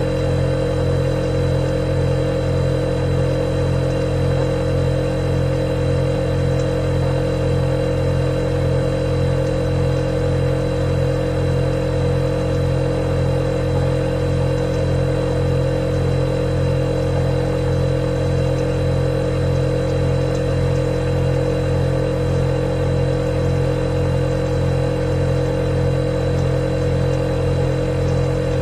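Refrigerator compressor running with a steady hum.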